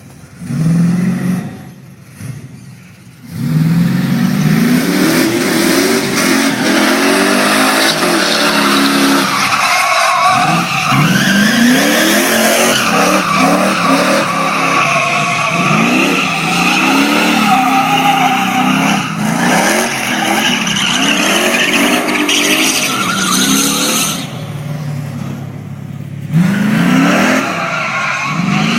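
Truck doing a burnout: the engine revs up and down over and over while the spinning tyres squeal and hiss against the pavement, easing off briefly near the start and again a few seconds before the end.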